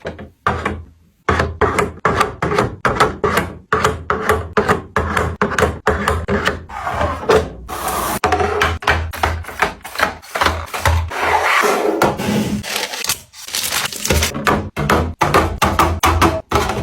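Household items and containers being handled and set down: a quick run of many short knocks and taps, several a second, with rubbing and scraping between them.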